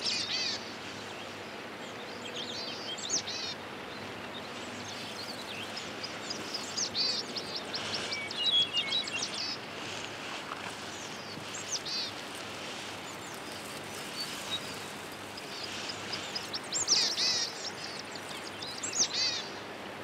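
Steady outdoor hiss with short, high bird chirps now and then, some in quick little clusters.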